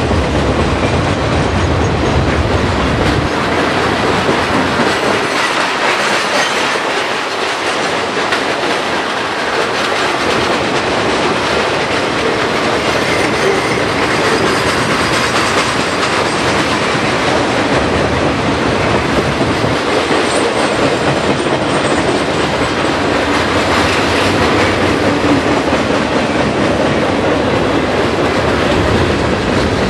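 Freight cars of a mixed manifest train rolling past close by: a steady, loud clatter of steel wheels over the rail joints.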